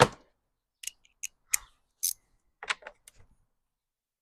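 Hand tools and small metal parts clinking and clicking as a lawn mower is worked on: a sharp knock at the start, the loudest, then about seven lighter, separate clicks spread over the next few seconds.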